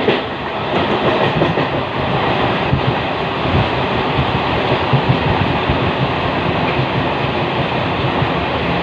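Indian Railways train in motion: a steady rumble of wheels on the track with irregular clicks and knocks from the rails.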